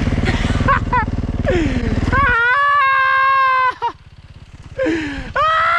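Yamaha YZ450 dirt bike's single-cylinder engine under throttle while riding. It runs with a heavy low rumble that drops away about two seconds in, then rises in pitch and holds a high steady rev for about a second, with another rev near the end.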